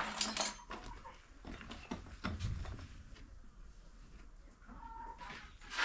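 Farm animals calling, chickens among them, with a few scattered sharp knocks, the loudest right at the start and at the very end.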